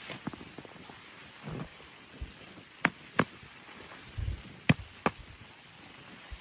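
Sharp clicks or knocks, two pairs about a third of a second apart, with a few soft low thumps between them, over a faint steady hiss.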